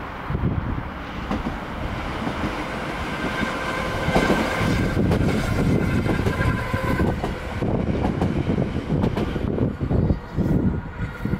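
Talent 2 electric multiple unit passing beneath a bridge. Its rolling noise builds, peaks with a steady electric whine about four to seven seconds in, then falls away.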